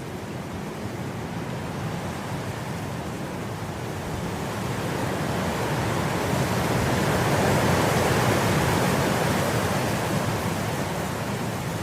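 Wind blowing through grass: a steady rushing that swells into a stronger gust about halfway through, then eases a little.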